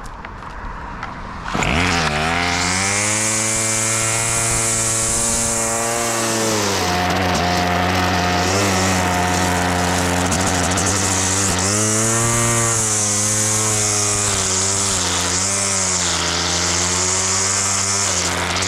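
Small engine of a grass-cutting machine throttling up sharply about a second and a half in, then running at high speed, its pitch dipping and recovering several times as it works.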